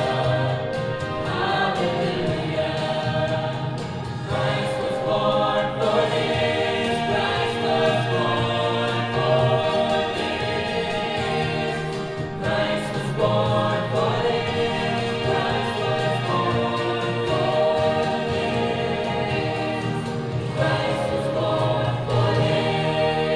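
Church choir singing, holding sustained chords that change every few seconds.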